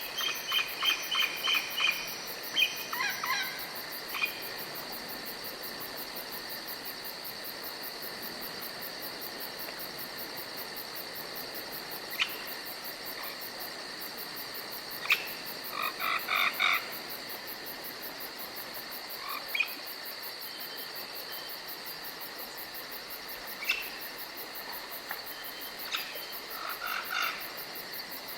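Forest ambience: steady high-pitched insect chirring, with short runs of rapid croaking frog calls at the start, around the middle and near the end, and a few single sharp chirps in between.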